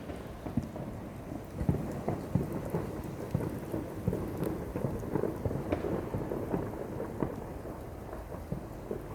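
Fireworks going off: a dense, irregular run of distant thumps and crackles over a steady rumble.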